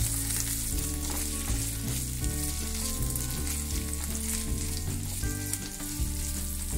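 Boiled potato cubes, fried onion and green chillies sizzling in oil in a nonstick frying pan, stirred and turned with a spatula.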